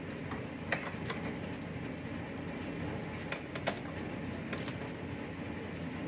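A few scattered light clicks from a hand ratchet and small bolts being worked, over a steady background hum.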